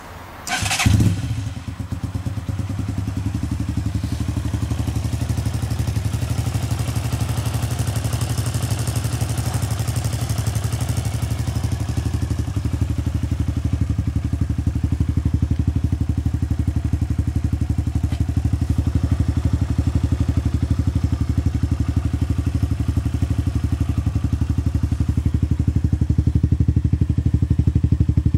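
Megelli 125M motorcycle's 125cc single-cylinder engine starting up about a second in, then idling steadily through a new Deak aftermarket exhaust that is not fully opened.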